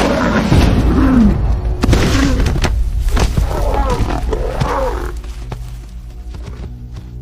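Lions growling in a series of calls with some thuds, dying away about five seconds in, leaving steady music.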